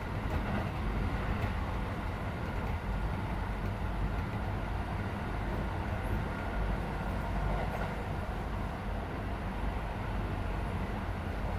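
Running noise of a Keisei 3400-series electric train, heard from inside a passenger car: a steady low rumble of wheels and bogies on the track at speed.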